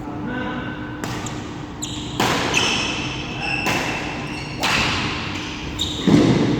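Badminton rally on an indoor court: a run of sharp racket strikes on the shuttlecock about every one to one and a half seconds, with shoes squeaking and feet thudding on the court floor between them.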